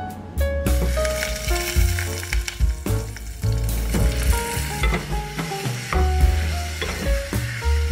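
Sesame oil, garlic and ground meat sizzling in a saucepan on a gas burner, stirred with a wooden spatula near the end. The sizzle starts about a second in and keeps on as a steady hiss.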